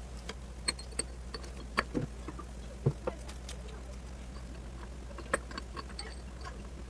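Scattered light clicks and taps of small metal parts being handled as a piston, its wrist pin and needle bearing are fitted onto a two-stroke engine's connecting rod, over a steady low hum.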